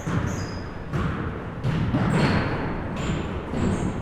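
Basketball game in an echoing gym: the ball bounces on the floor several times, each hit ringing into the hall, with short high squeaks scattered between.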